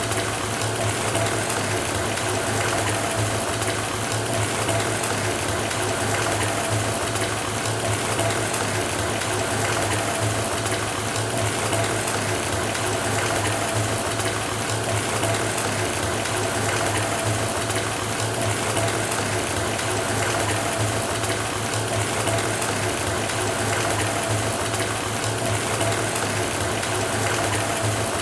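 Tap water running steadily from a faucet into a filling bathtub, a constant gushing with a steady low hum underneath.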